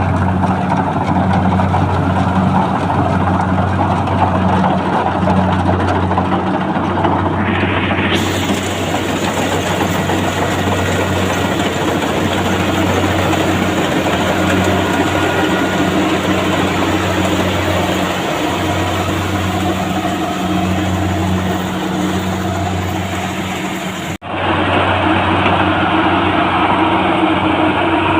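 Tractor engine running steadily under way, a loud low drone, with a momentary break in the sound about three quarters of the way through.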